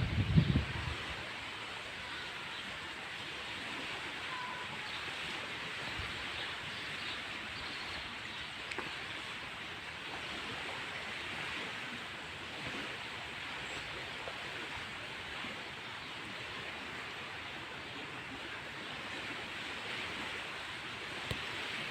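Steady rushing noise, with a brief low rumble in the first second.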